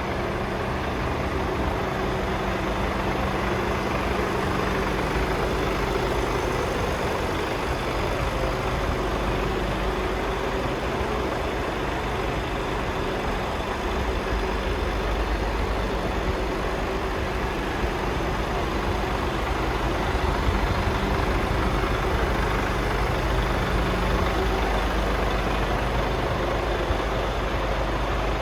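Mercedes Actros 2540 tractor unit's Euro 6 diesel engine idling steadily.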